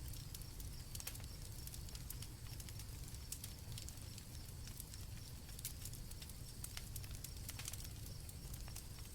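Campfire crackling: irregular sharp pops and snaps over a steady low rumble, with crickets chirping faintly in the background.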